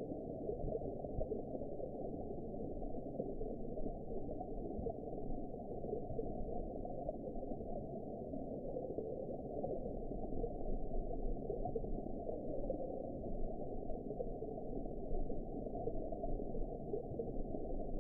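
Steady, muffled underwater ambience: a dull, low rush of water with nothing in the upper range, rising and falling slightly in loudness.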